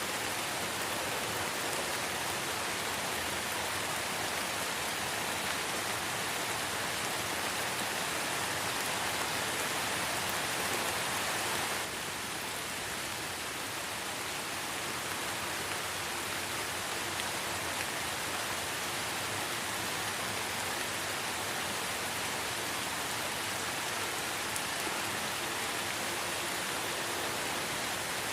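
Light rain falling in a forest, a steady even hiss of drops that dips slightly in level about twelve seconds in.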